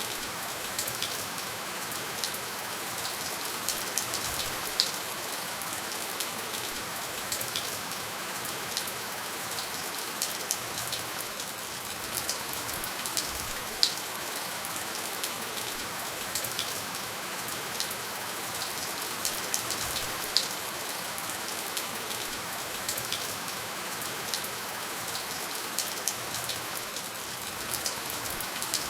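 Steady rainfall: an even hiss with many individual drops ticking sharply on a surface at irregular moments. No thunder.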